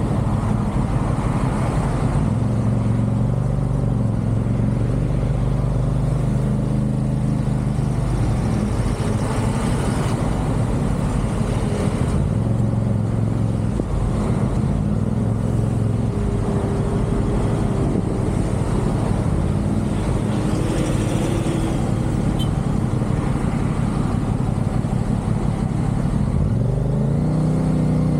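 CFMoto 450SR's parallel-twin engine running at expressway speed under wind rush, its pitch shifting with the throttle and climbing near the end as the bike accelerates.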